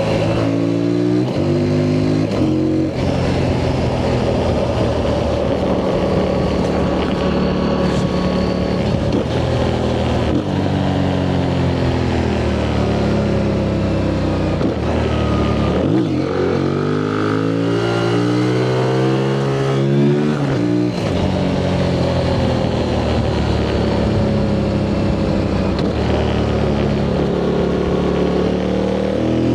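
Yamaha MT-07's 689 cc parallel-twin engine through its stock exhaust, ridden hard. The engine note climbs and drops again and again as the bike accelerates and slows, with brief breaks in the pitch a few times.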